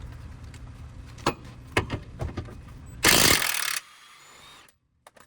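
Garage work noise: a low rumble with a few sharp knocks, then a loud hissing burst lasting under a second, after which the sound cuts out almost entirely.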